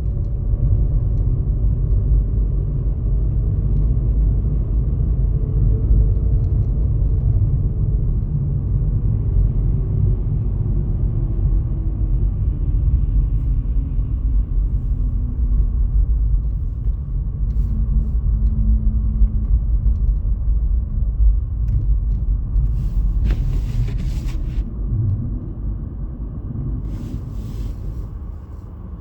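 Heavy low rumble of a vehicle on the move, with a faint engine tone that falls slowly as it slows down. A few short scratchy noises come near the end.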